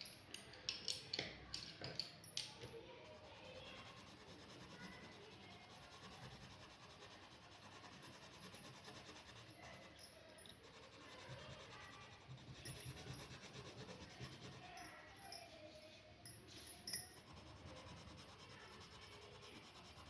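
Faint scratching and rubbing of a drawing tool moving over paper in short strokes, with a cluster of sharp taps about a second in and one more near the end.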